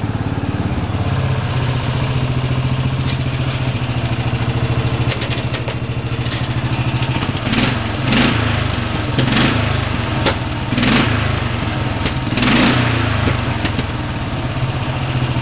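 Briggs & Stratton 14.5 hp single-cylinder overhead-valve engine of a racing lawn mower running steadily, with several short louder bursts in the second half.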